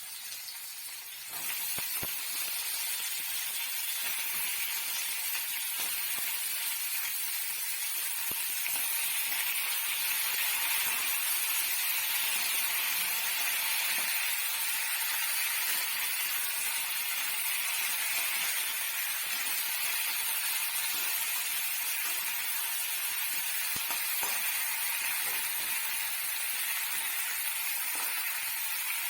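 Parwal (pointed gourd) sabzi sizzling as it fries, a steady hiss that gets louder about a second and a half in.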